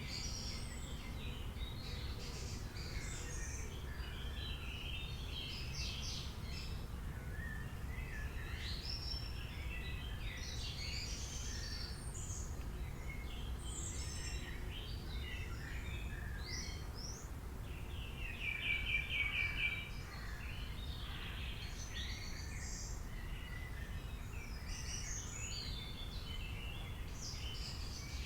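Several wild birds singing and calling over one another in a dawn-chorus-like mix, over a steady low rumble. About two-thirds of the way through, one bird gives a loud, fast trill of evenly repeated notes, the loudest sound here.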